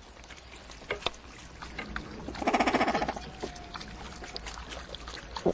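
Water lapping and splashing around a fishing raft, with scattered small clicks and knocks, and a brief raspy, buzzing call about two and a half seconds in.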